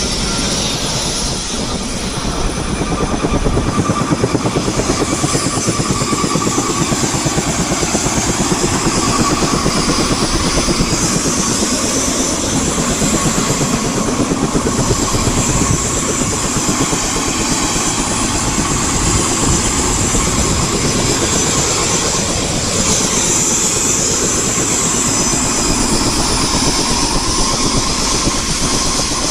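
Helicopter in flight: the rotor blades chop in a fast, even rhythm over a steady engine and rushing air noise.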